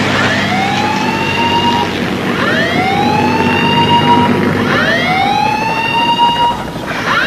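A shipboard alarm siren sounding a repeating rising whoop, about four times, each glide up held for a moment before the next starts. It sounds as the deck is cleared and all hands are told to take cover for an emergency landing.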